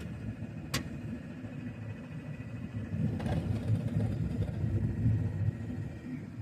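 Road vehicle driving on a highway: a steady low rumble of engine and road noise that swells louder for a couple of seconds in the middle, with a sharp click just under a second in.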